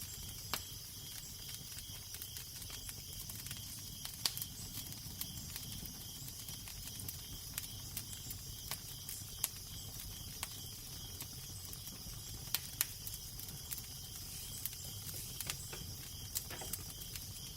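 Crackling fire with irregular sharp pops and snaps over a steady low rumble of wind, with a constant high hiss carrying a faint, evenly repeating chirp.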